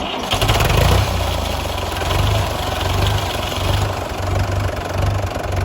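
Fordson Major tractor engine coming in and running at idle, with an uneven low throb.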